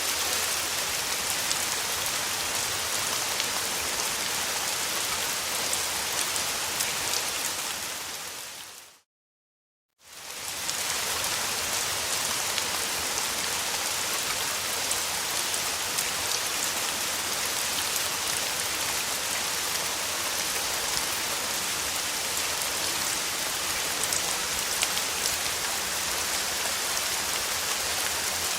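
Steady rain falling, an even hiss with dense patter of drops. About nine seconds in it fades out to a second of complete silence, then fades back up to the same steady rain.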